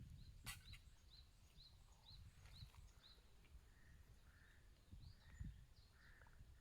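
Faint bird calling: a run of about seven short, high notes at roughly two a second, followed by softer, lower notes. Wind rumbles on the microphone underneath.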